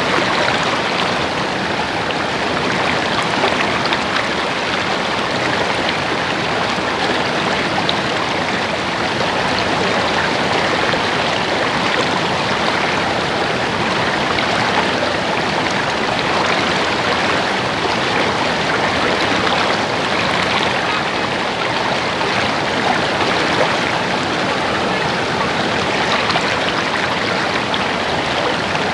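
Steady babbling of a stream's running water.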